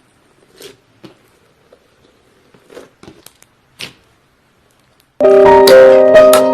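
Faint, scattered little squishes and clicks of slime being handled, then piano-like keyboard music comes in loudly about five seconds in.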